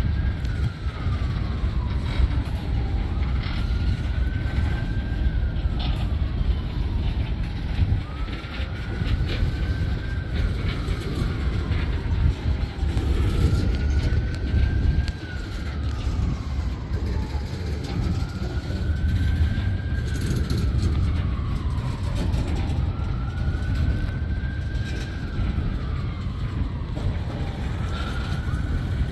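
Freight cars of a manifest train rolling past, a steady low rumble of wheels on rail with scattered clicks. Over it, a wailing tone rises quickly and falls slowly, repeating about every five seconds.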